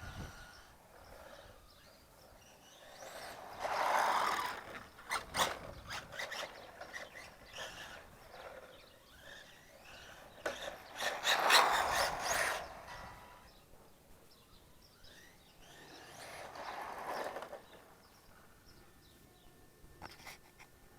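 Hobao Hyper EPX electric RC semi truck with a 2700 kV brushless motor on 2S driving past three times, its motor and tyre noise swelling and fading with each pass, with a few sharp clicks during the first two passes.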